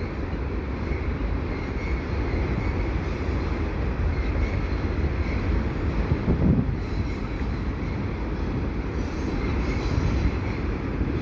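Railcars of a passing train rumbling steadily over the track, with a faint high wheel squeal at times.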